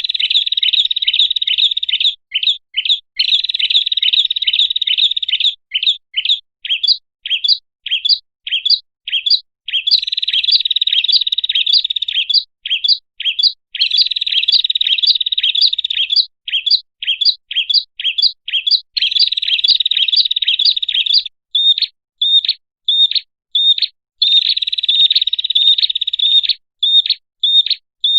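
Prenjak (prinia) song played as a bird-lure call. Dense runs of rapid, sharp, high chirps alternate with stretches of separate chirps at about four or five a second.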